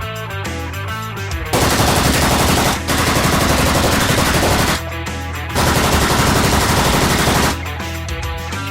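Rock guitar music, twice drowned out by long bursts of rapid machine-gun fire, each a few seconds long: one starting about a second and a half in, the other about five and a half seconds in.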